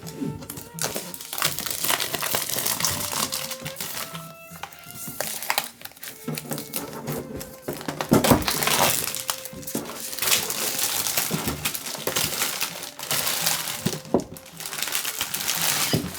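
Crinkling and rustling of packaging as the model kit is handled, over soft background music.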